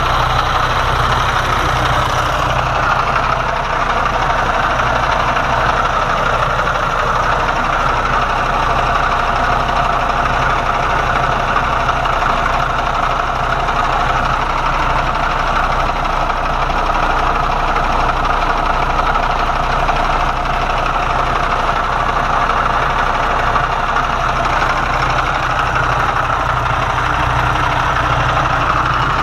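Diesel truck engine idling steadily while warming up.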